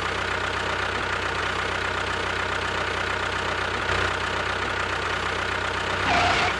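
Engine running steadily at idle with a fast, even knocking beat.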